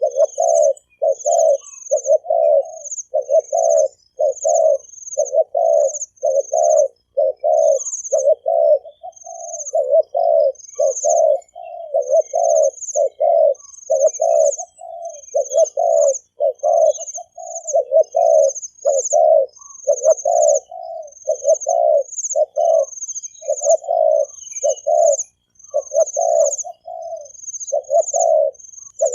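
Male spotted dove giving its fast bowing coo, short low coos repeated about three every two seconds without a break. Another bird's short high chirps repeat about once a second above it.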